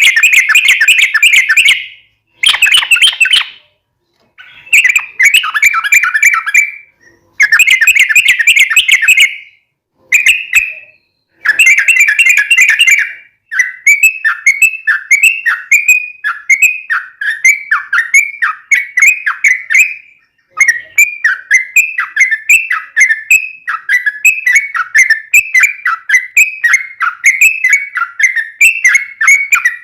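Yellow-vented bulbul (trucukan) singing loudly. For about the first half it gives dense bursts of rapid chattering notes, each a second or two long, with short pauses between them. After that it settles into a steady run of repeated sliding whistled notes, about two a second.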